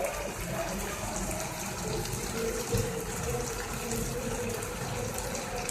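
Chicken in masala gravy sizzling in a pan on a low flame, a steady hiss.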